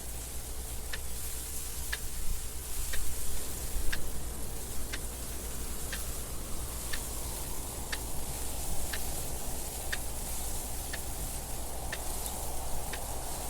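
Clock ticking steadily, one sharp tick a second, over a continuous wind noise with a low rumble and a soft hiss.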